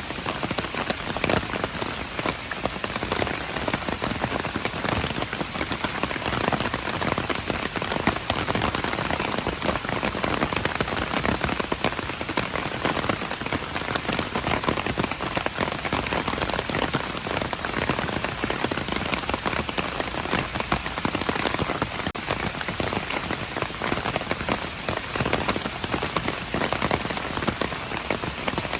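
Steady rain falling and pattering on hard surfaces: a dense, even hiss crowded with close drop impacts.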